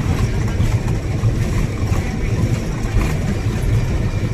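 Vehicle running with a steady low rumble.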